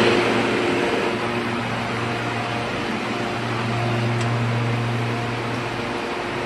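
Air-cooled industrial water chiller running: a steady hum with a strong low tone from its Copeland scroll compressors, over the even rush of its condenser fans.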